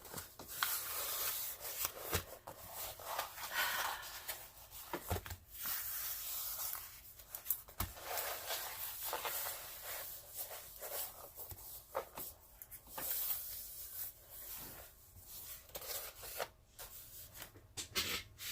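Hands rubbing and rustling over a plastic-covered diamond painting canvas, in irregular bursts with a few sharp clicks and taps.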